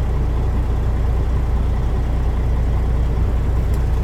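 Diesel engine of a Kenworth water truck running with a steady, deep rumble.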